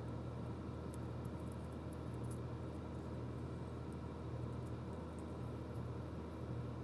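Steady low electrical hum with faint, scattered small clicks from small parts being handled.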